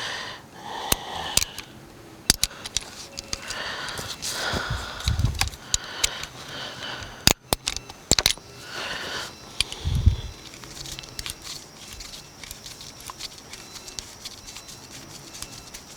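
Hand work on seat belt parts: scattered clicks and rustling, with two dull knocks about five and ten seconds in.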